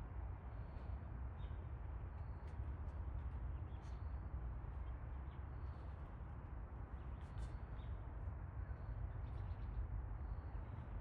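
Short, high bird chirps repeating every second or so over a steady low rumble.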